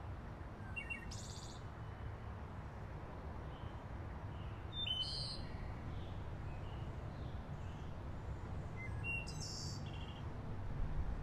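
Outdoor ambience: a steady low rumble with three short bird chirps, about four seconds apart.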